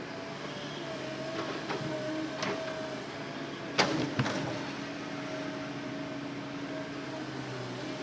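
Hitachi Zaxis excavator engine running steadily with a few sharp knocks, the loudest about four seconds in.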